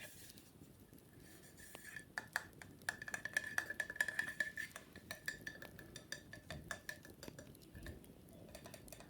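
Wicker basket being scratched and rubbed during cleaning: a dense run of light crackly ticks that grows busier in the middle, with a thin high squeak running under it.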